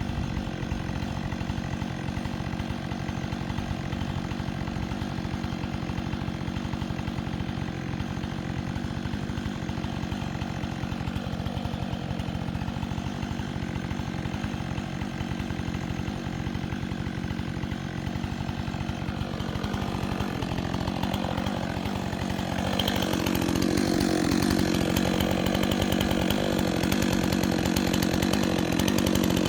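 Chainsaw engine running steadily, getting louder and fuller about three-quarters of the way through.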